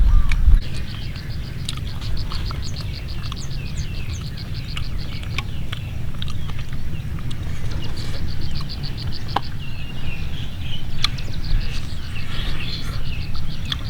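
Wild birds calling: a rapid, evenly pulsed high trill that stops about halfway through and returns near the end, with scattered short chirps and a few clicks over a steady low rumble.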